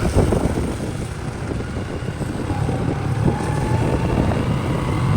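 Motorcycle running at riding speed, its engine rumble mixed with wind buffeting the microphone.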